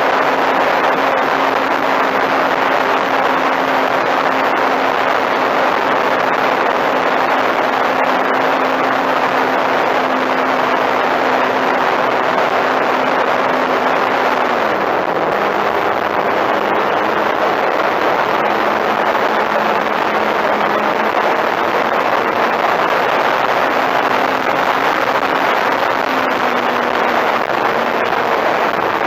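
Electric motor and propeller of a Sebart Katana 30E radio-controlled plane running in flight, heard from an onboard camera under a loud rush of wind over the microphone. The motor's steady tone steps down in pitch about halfway through.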